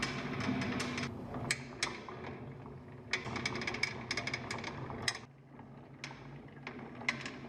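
Antique ice crusher being tested, giving irregular sharp clicks and cracks over a steady low hum, with a brief lull about five seconds in.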